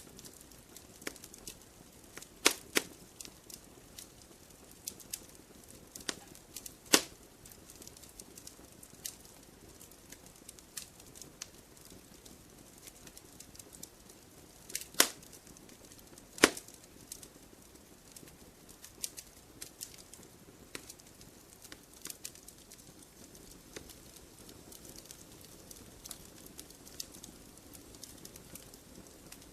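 Wood fire in a fireplace crackling: scattered small snaps over a faint steady background, with a few sharp louder pops at irregular intervals.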